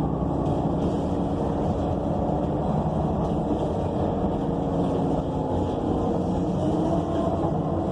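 Steady running of a city transit bus heard from inside the cabin: an ElDorado National EZ Rider II BRT with a Cummins Westport ISL G natural-gas engine and Allison B300R automatic transmission. The engine and drivetrain hum shifts pitch slightly just past the middle.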